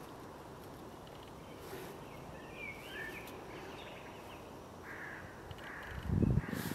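Outdoor ambience with birds calling over a steady hiss: a few short chirps around the middle, then more calls in the last two seconds. A loud low thump near the end.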